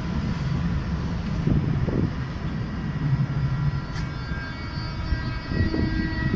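Electric train running past with a steady low rumble, with a sharp click about four seconds in and faint high tones joining after it.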